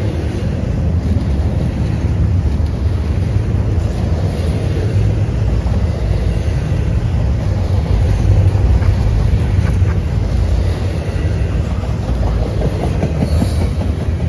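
A train rolling past, with a steady low rumble of wheels on the rails.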